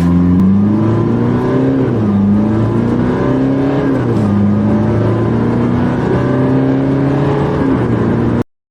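Car engine accelerating hard from a standstill, its pitch climbing and dropping back at each upshift about three times, then cutting off abruptly near the end.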